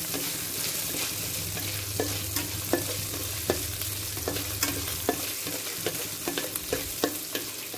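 Chopped ginger and garlic sizzling in hot coconut oil in a steel pan, with a spatula scraping and knocking against the pan at irregular moments, one or two times a second, as it is stirred.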